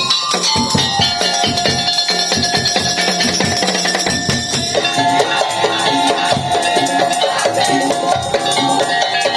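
Madurese tong-tong (daul) ensemble playing: dense, driving percussion with a steady melodic line over it, the arrangement shifting about five seconds in.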